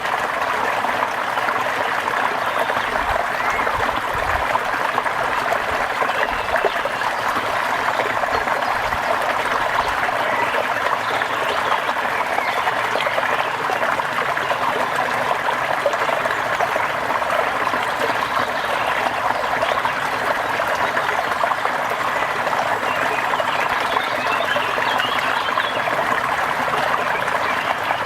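Steady rain falling, an even hiss with a fine patter that holds constant throughout.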